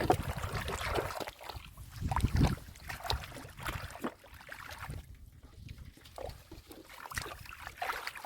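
Irregular splashing and squelching of hands working through mud and shallow water, with scattered wet slaps and clicks, loudest at the start and again about two seconds in.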